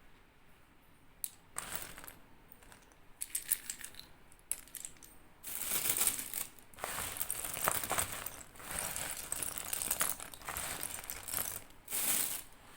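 Slate pencil being crunched: a few sharp clicks at first, then from about halfway several long bouts of dense, crackly crunching.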